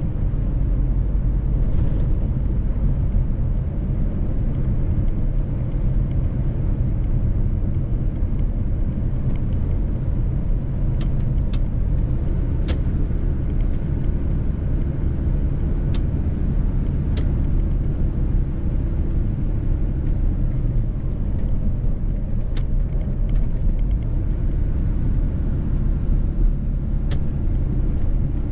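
Mercedes-Benz truck driving along: a steady low rumble of engine and road noise, with a few faint sharp clicks now and then.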